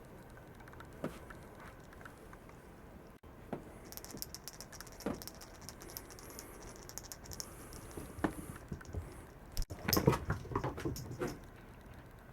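Irregular light taps, clicks and scratchy rustling, with a cluster of louder knocks about ten seconds in.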